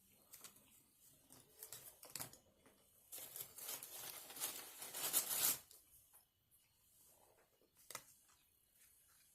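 Paper food wrapper crinkling and tearing in a few short bursts, with one long rustle in the middle and a sharp click near the end.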